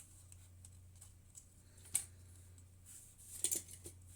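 A few light clicks and taps of small items being handled on a workbench, one about two seconds in and a quick cluster near three and a half seconds, over a steady low hum.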